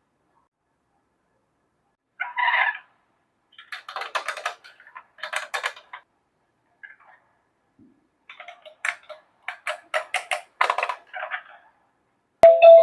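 Small plastic toy pieces clicking and rattling as they are handled, in clusters of quick taps separated by silent gaps. Music starts right at the end.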